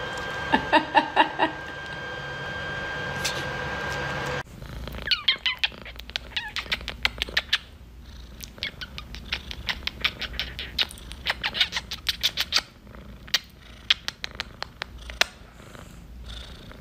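A house cat purring close up, with a run of quick clicks and a short chirp over it. The sound changes abruptly about four seconds in.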